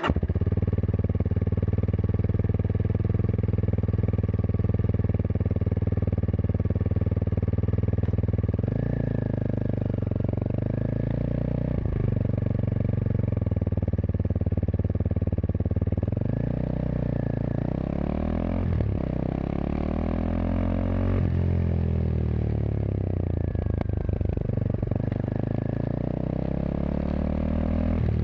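Kawasaki KLX230SM's single-cylinder engine through a K-Factory FRC slip-on muffler, idling steadily for about eight seconds after firing up, then revved in a series of rising and falling blips.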